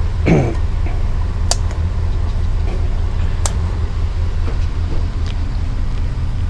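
A motor vehicle engine idling: a steady low rumble with a regular pulse. There is a short falling sound just after the start, and two sharp clicks about two seconds apart.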